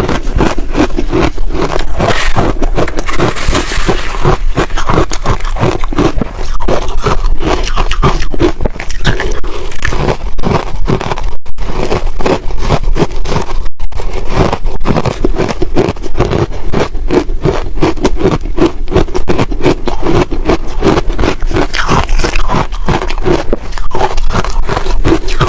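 Close-miked chewing of crunchy ice: a loud, steady run of crunches, with two brief pauses around the middle.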